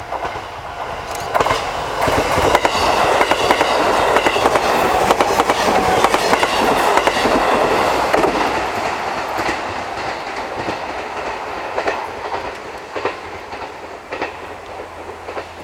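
E531-series electric multiple unit passing close by, its wheels clacking over the rail joints. The sound swells to its loudest a few seconds in, then the clacking thins out and fades as the train moves away.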